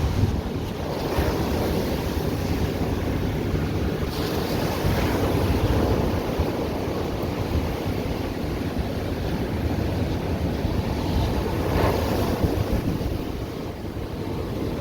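Atlantic surf breaking and washing up the beach in a continuous rush, with louder surges from breaking waves about a second in, around four to five seconds in, and about twelve seconds in.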